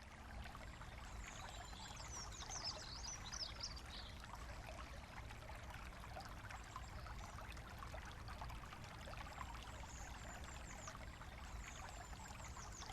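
A small woodland brook, the Ulverscroft Brook, running and trickling steadily over its bed. Small birds chirp above it in short high calls, a cluster of them a couple of seconds in and more near the end.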